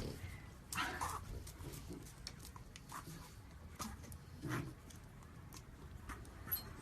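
A dog making a few short, faint noises, with light taps and clicks between them.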